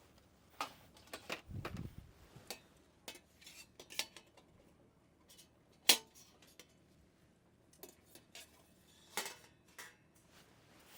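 Metal camping gear being handled, clinking and knocking in scattered short strikes; the loudest is a sharp clink about six seconds in, with another a little after nine seconds.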